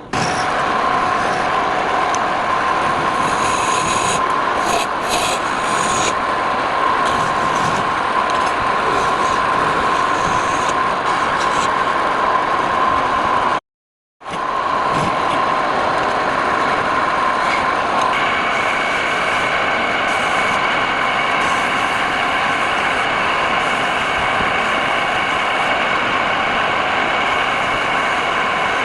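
Wood lathe running, a steady motor whine under the rasping of a tool or abrasive on the spinning wood. It drops out completely for a moment about halfway through, and a second, higher whine joins about two-thirds in.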